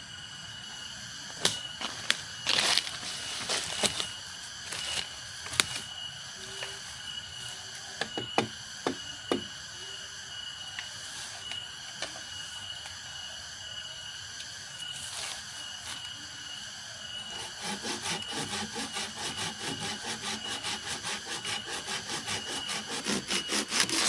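Handwork with wood at camp: scattered knocks and taps, then about two-thirds of the way in a fast, even run of strokes, about four a second, like sawing or chopping. A faint steady high tone runs underneath.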